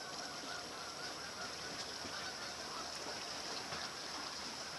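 A large flock of Canada geese honking faintly in the distance, many calls overlapping into a steady background chorus.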